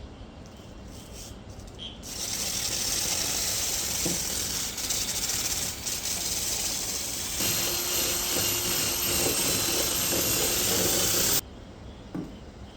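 Loud steady hissing from rust-removal work inside a motorcycle exhaust silencer. It starts about two seconds in, a faint steady whine joins about halfway, and it cuts off suddenly near the end.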